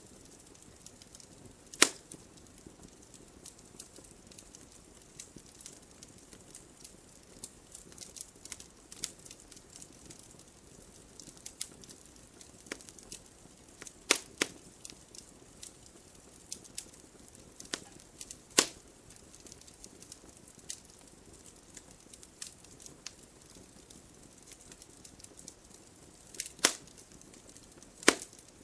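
Wood fire burning in a fireplace: irregular small crackles over a soft hiss, broken by about five louder sharp pops.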